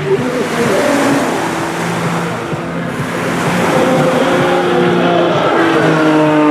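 CAP 231 aerobatic plane's piston engine and propeller running at display power, with a steady rushing noise underneath. Near the end the engine tone falls steadily in pitch, as when the plane passes and moves away.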